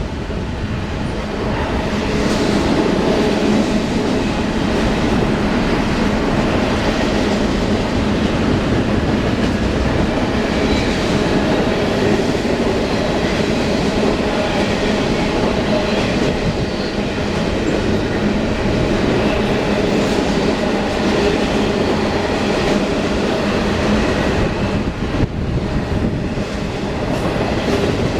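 A train running past at a steady level: wheels on rail with a clacking of wheels over rail joints.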